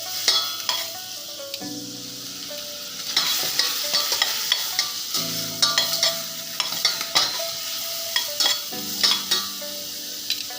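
Shrimp shells, leek, carrot and garlic sizzling in hot oil in a pot while being stirred, with many short scraping clicks from the spoon against the pot. The vegetables and shells are being browned to a golden colour as the base of a seafood stock.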